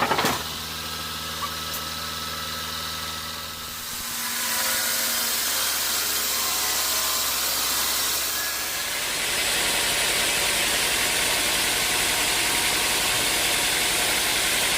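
A sawmill engine running steadily, with a few sharp knocks at the very start. About four seconds in, a loud, even rushing noise of the saw cutting into the dry teak log sets in and grows louder again near nine seconds.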